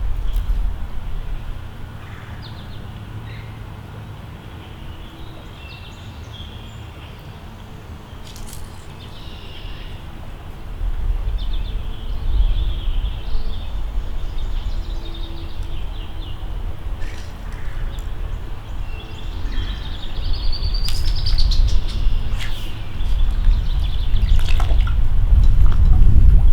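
Small birds chirping and calling, with one clear gliding whistle about two-thirds of the way in, over a low rumble that grows louder about ten seconds in and again near the end.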